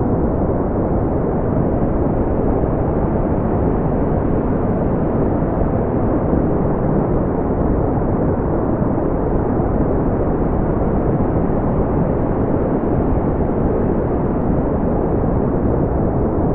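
Steady, smoothed brown noise: a deep, even rumbling hiss with its weight in the low end and almost nothing above the high mids, unchanging throughout.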